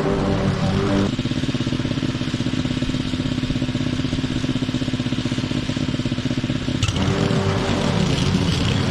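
Small petrol mower engine running steadily. Its note changes to a fast, even pulsing about a second in and goes back near the end, as the engine's load or speed shifts.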